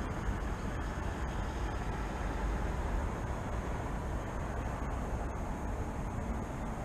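Steady city traffic rumble: an even wash of noise, heaviest in the low end, with no single vehicle standing out.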